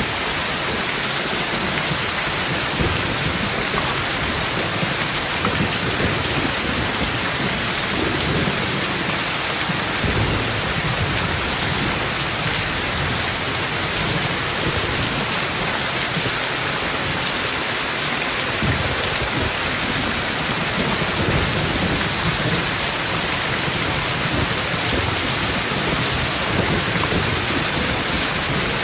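Steady rain falling, with thunder rumbling low underneath in slow rolling waves that come and go.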